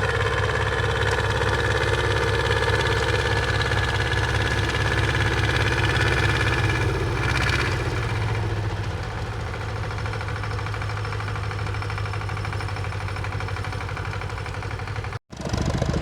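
Tractor engine running steadily with an even, fast firing pulse, a little quieter from about halfway through, with a brief dropout near the end.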